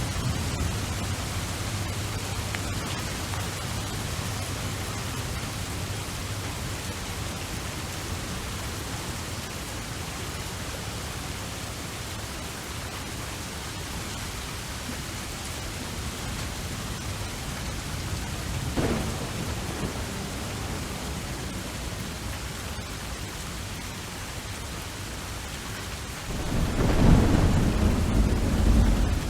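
Steady rain with thunder: a short crack about two-thirds of the way in, then a louder low rumble of thunder near the end.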